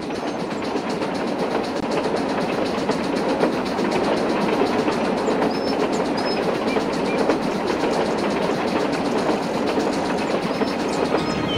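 Passenger train rolling past on the rails: a steady noise of wheels on track that grows in over the first couple of seconds and then holds.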